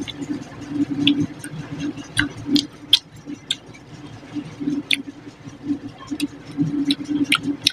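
Close-miked chewing of a mouthful of fish curry and rice, with irregular wet mouth clicks and smacks.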